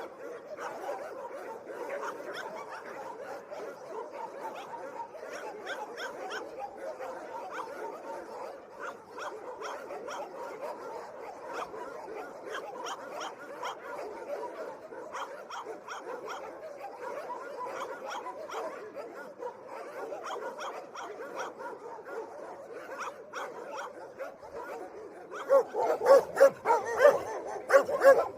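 Dogs barking and yipping, many short barks overlapping in a steady chatter. Near the end, louder barks come in, a few each second.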